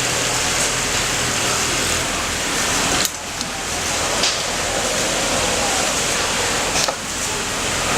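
Automatic pattern sewing machine running: a steady whirring machine noise with a low hum and a few sharp clicks, at about three seconds, four seconds and seven seconds in.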